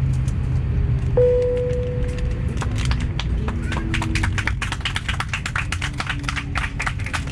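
A single airliner cabin chime rings about a second in, then passengers break into applause that builds and fills the cabin, over the steady low hum of the aircraft cabin.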